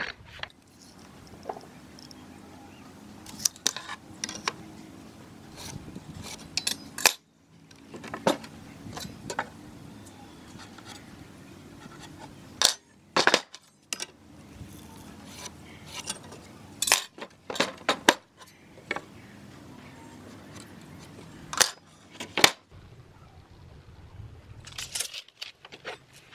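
Irregular clicks, knocks and light metallic clinks from hand tools and hardware being handled during woodworking, over a low steady hum. The sound breaks off abruptly a few times.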